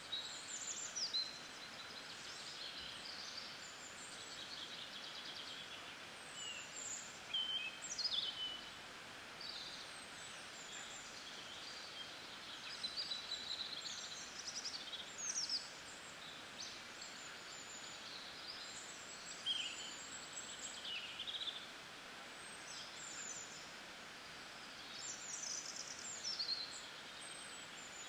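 Birds chirping and whistling: many short calls and quick falling notes come and go over a steady faint hiss of outdoor ambience.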